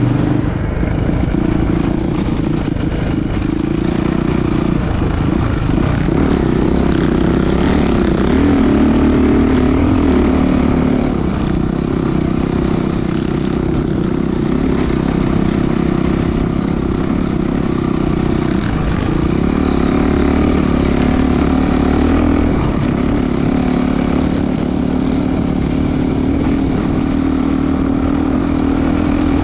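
Motocross dirt bike engine running steadily, its note shifting up and down several times with the throttle.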